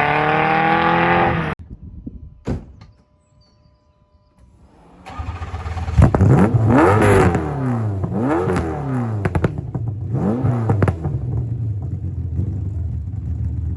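A V8 car engine pulling up through the revs, cut off abruptly. After a short quiet with a single thump, an engine is blipped up and down three or four times, then runs steadily.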